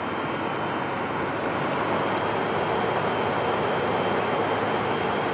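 Double-headed Siemens Charger diesel-electric locomotives idling: a steady mechanical rush with a faint high whine, growing slightly louder.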